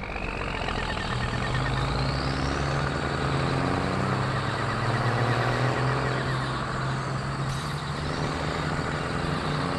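Large truck engine running steadily, with a rising whine in the first couple of seconds.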